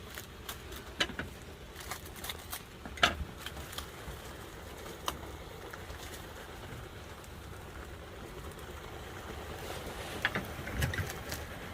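Utensils clicking and tapping against dishes while eating, in scattered single clicks, the sharpest about three seconds in, over a steady low hum.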